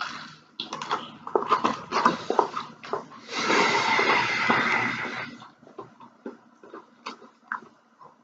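Close-up eating of a breaded fried chicken strip: a run of sharp crunches and mouth noises, with about two seconds of dense crackling near the middle, then only a few faint clicks.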